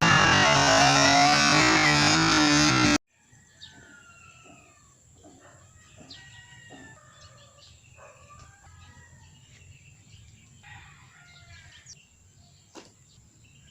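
Loud synthesizer music cuts off abruptly about three seconds in, leaving faint bird calls: scattered short chirps and whistles, with roosters crowing.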